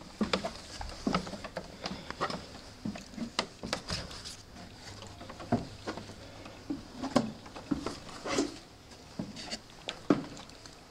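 Footsteps on a steep wooden ladder stair: irregular knocks and thumps of shoes on the wooden treads.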